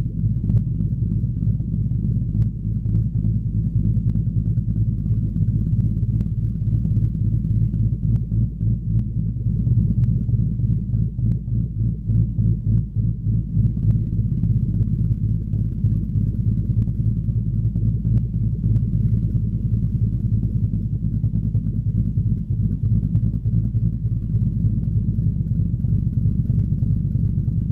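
2013 Ford Mustang GT's 5.0-litre V8 idling with a choppy, uneven lope through a Pypes Pype Bomb axle-back exhaust. The lope comes from a Steeda 'ghost cam' tune that makes the stock engine idle like a cammed one.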